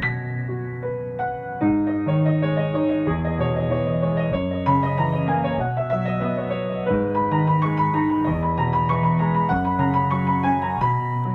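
Piano music: sustained chords over bass notes with a slow melody.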